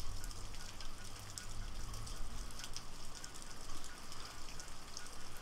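Rain falling, with many small drops ticking and a low rumble underneath.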